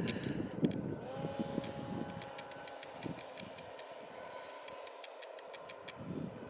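Gusty wind buffeting the microphone with a low rumble that eases toward the end. About a second in, the steady whine of the Multiplex EasyStar II's small electric motor and propeller comes in, rising briefly as it settles.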